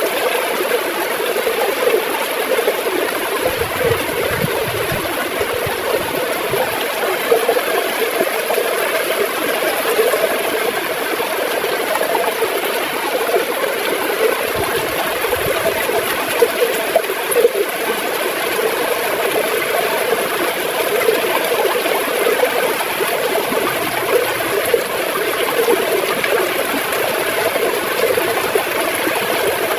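Gurgling river water flowing steadily.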